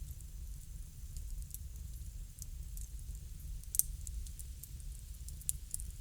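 Wood fire crackling: sparse sharp snaps and pops over a steady low rumble, with one louder pop about four seconds in.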